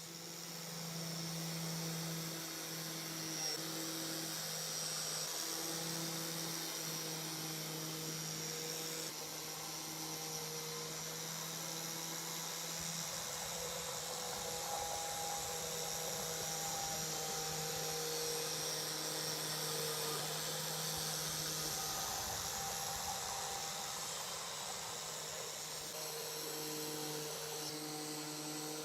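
A small electric power tool, such as a rotary tool or grinder, running steadily with a motor hum and a high whine. It turns rougher and noisier from about halfway through.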